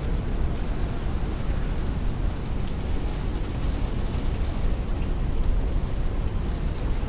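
Heavy rain hitting a window with strong wind: a steady, dense rush with a deep rumble underneath and scattered sharper taps of drops on top.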